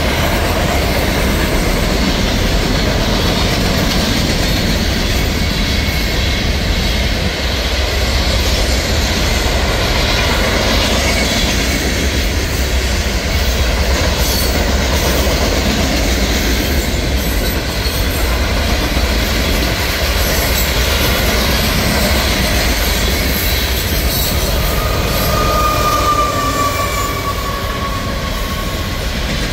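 Loaded freight train hopper cars rolling past at speed: a steady rumble and clatter of steel wheels on rail. A little before the end there is a brief high wheel squeal that falls slightly in pitch. At the very end the train's mid-train distributed-power locomotive, a GE ET44AH, reaches the spot.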